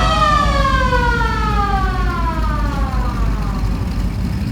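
A siren wailing once: its pitch climbs quickly, then slides slowly down and fades out over about three and a half seconds. Vehicle engines rumble steadily underneath.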